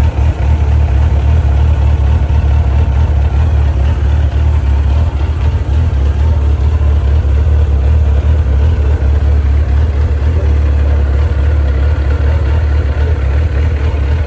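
1994 Suzuki RF900's inline-four engine idling steadily.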